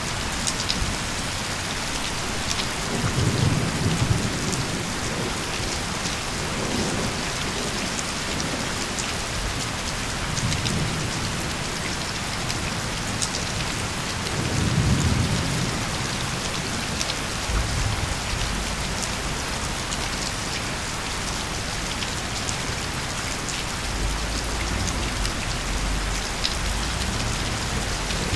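Steady heavy rain with scattered sharp drop hits, and low rolls of thunder rumbling several times, the strongest about three seconds in and about fifteen seconds in.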